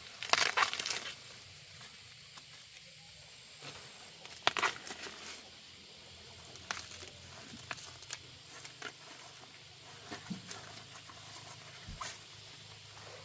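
Irregular rustling and small clicks from things being handled, with a louder burst of rustling near the start and another about four and a half seconds in.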